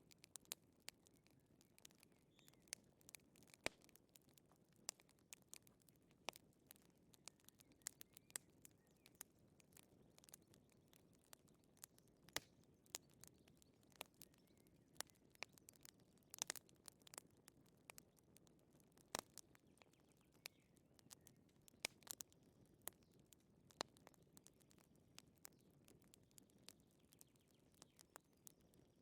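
Wood fire crackling quietly, with irregular sharp pops and snaps.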